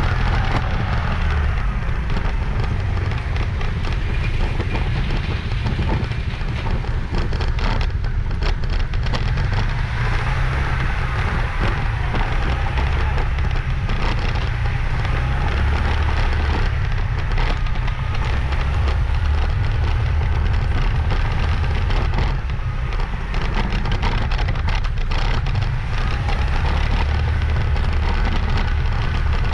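Motorbike riding at speed: a steady rumble of wind on the microphone mixed with engine and road noise.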